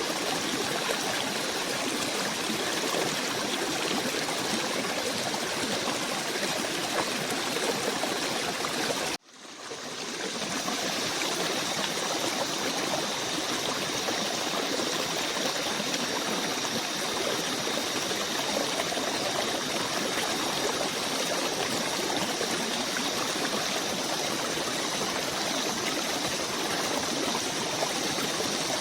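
Steady flowing stream water. About nine seconds in it cuts out suddenly and fades back in over about a second, like a loop join. After that two faint steady high tones sit above the water.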